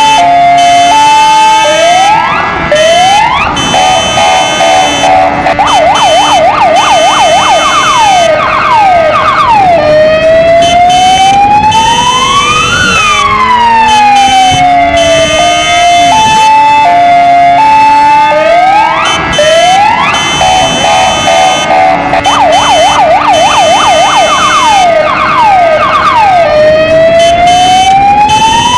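Kingvox ERP electronic siren, loud, cycling through its tones: a two-tone hi-lo, a fast warble, then slow rising-and-falling wails. The sequence repeats about every 16 seconds. A steady lower drone, meant as a motorcycle engine, runs beneath it.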